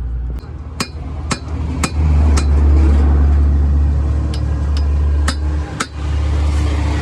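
Hammer blows on metal: about eight sharp strikes, roughly two a second, with a pause midway. A loud low rumble runs underneath, swelling about two seconds in.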